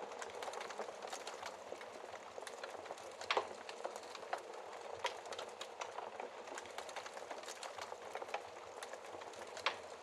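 Log fire crackling, with frequent small snaps and a louder pop about three seconds in and another near the end, over a steady hiss of rain.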